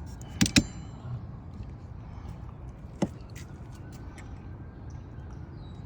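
Sharp clicks and knocks of rear wiper parts being handled and fitted on a car: two loud clicks close together about half a second in, another about three seconds in, with a few faint ticks between, over a steady low rumble.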